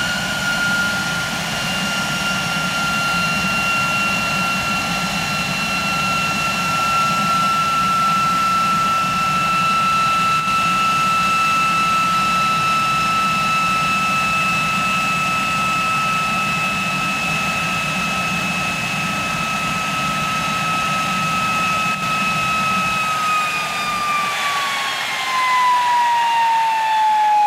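MiG-21's R11F-300 turbojet engine running with a steady high whine over a low rumble. From about 23 seconds in, the whine falls steadily in pitch and the rumble fades as the engine winds down.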